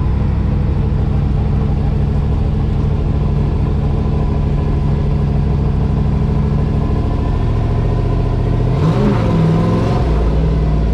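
Drift truck's engine running at a steady speed, then revved up and let back down about nine seconds in, with a brief rush of noise.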